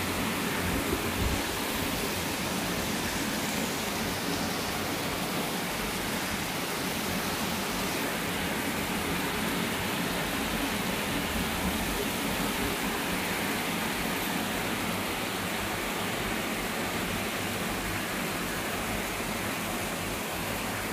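Heavy typhoon rain pouring steadily: a dense, even hiss that does not let up.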